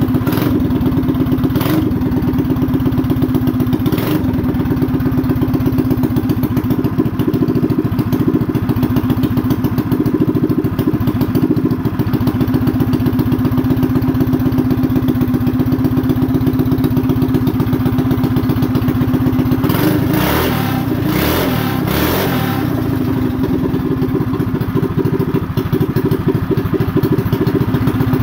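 Mini bike's small single-cylinder engine running steadily on a newly fitted Wildcat WC22 carburetor during tuning. It is blipped briefly a few times in the first seconds, then revved in a quick cluster about twenty seconds in.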